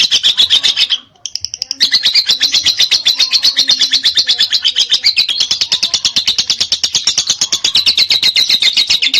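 Lovebird singing its long 'ngekek' chatter: a fast, even run of harsh notes, more than ten a second. The run breaks off briefly about a second in, then carries on unbroken.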